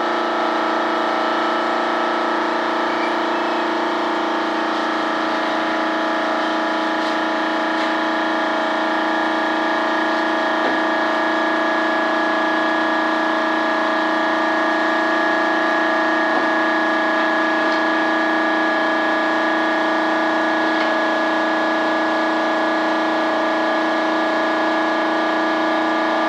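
A machine in the paint-spraying shop running with a steady, unchanging hum of several tones and a fast low pulsing beneath it.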